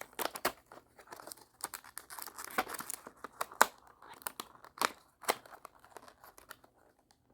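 Small packaging crinkling and tearing, with irregular light clicks and scratchy rubbing, typical of a nail-prep pad wrapper being handled.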